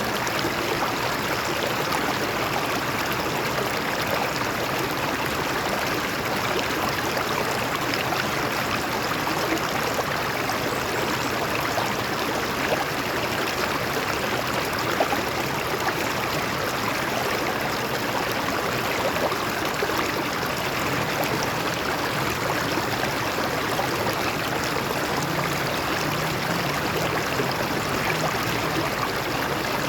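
A stream flowing over rocks, a steady rushing and babbling of water.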